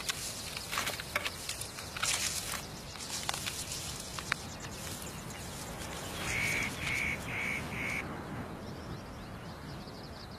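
A bird gives four short calls in quick succession, about two a second, after a few seconds of scattered snapping and crackling.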